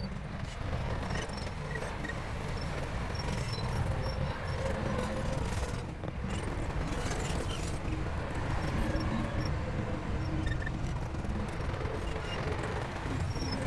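Heavy diesel earthmoving machinery running steadily under load, a continuous low engine sound with no pauses.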